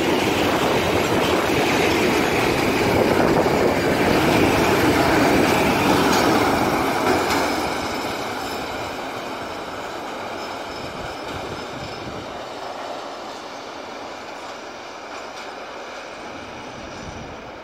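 Freight train wagons rolling past on the rails, wheels clacking over the rail joints with a faint wheel squeal. The rumble is loud for the first seven seconds or so, then dies away over the rest.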